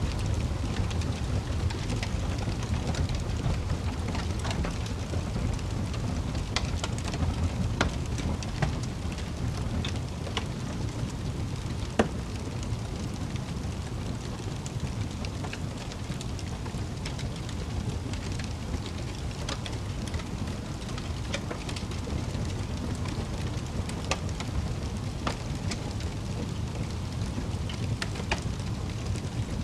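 Wood fire in a fireplace crackling: scattered sharp pops and snaps, one louder about twelve seconds in, over a steady low rumble of the flames.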